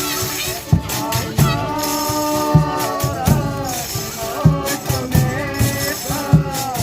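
Folia de Reis music: a tambourine jingling over steady low drum beats, with a held melody line sliding between notes above them.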